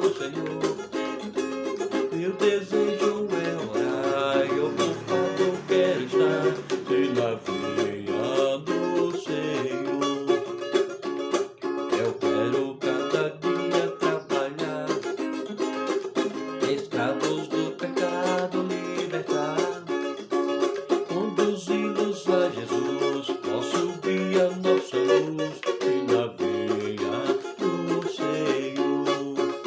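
Cavaquinho strummed in a steady, even rhythm, playing a hymn tune.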